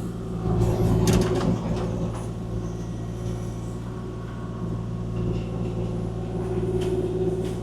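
Kubota KX040-4 excavator's diesel engine running steadily, heard from the cab. From about half a second to a second and a half in there is a louder burst of scraping and clatter as the machine works the ground.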